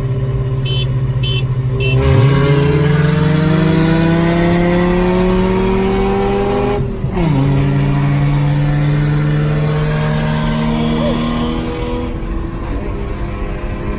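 Car engine pulling steadily under acceleration, its pitch climbing slowly. About halfway through there is one quick gear change, where the pitch drops, and then it pulls up through the next gear.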